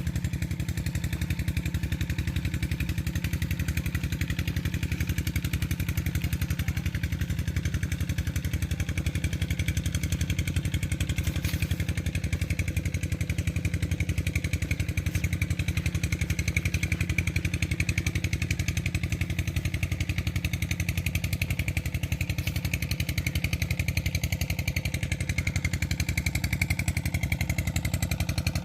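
Tubewell diesel engine running steadily at a constant speed, with an even, rapid chugging.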